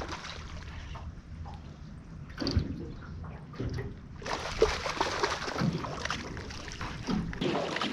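Water sloshing and splashing, with a denser spell of splashing from about four seconds in, from a small hooked giant trevally being brought to the side of the boat.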